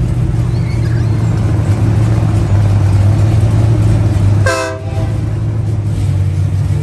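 Car engine running with a steady low rumble, and a short horn blast about four and a half seconds in.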